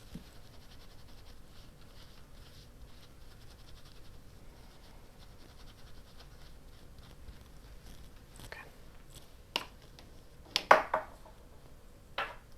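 Paper and craft tools being handled on a desk: faint scratching and rustling, then a few sharp clicks and snaps in the second half, the loudest a quick double snap.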